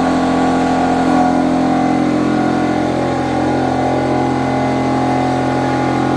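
Steady mechanical hum of a running motor, holding one constant pitch.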